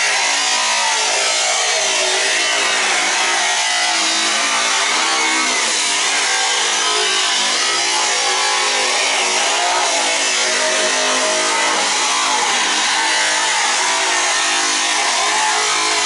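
Handheld power tool cutting through an old tanning bed, running continuously, its motor pitch wavering as it bogs under load.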